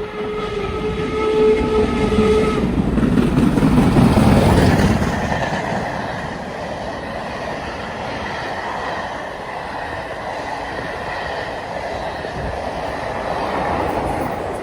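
A train sounds its horn, one steady pitched blast of about two and a half seconds, and then passes with a rumble of wheels on rail that is loudest about four seconds in and carries on steadily.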